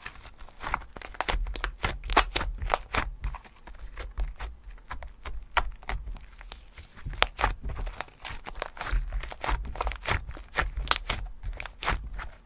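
Slime being squished and pressed by hand: a dense, irregular run of crackles and pops with soft low thumps, cutting off suddenly at the end.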